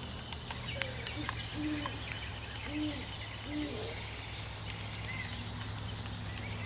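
Great horned owl hooting: a series of about four short, low hoots between about one and four seconds in.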